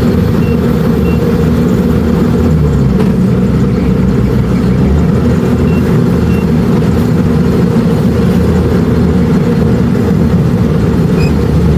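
Kubota DC-70 Plus combine harvester running steadily while harvesting rice. Two pairs of short high beeps sound over the machine, about half a second in and about six seconds in.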